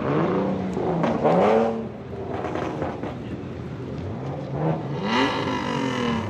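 A car engine revving, its pitch rising and falling several times, loudest about a second and a half in and again near the end.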